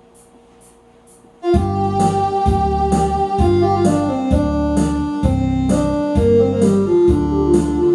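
Faint room hum, then about a second and a half in a song's backing track starts abruptly: an electronic keyboard melody over a steady bass beat.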